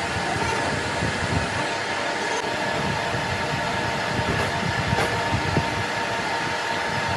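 A machine running steadily with a continuous hum of several held tones over a rough rumble, with a few faint clicks.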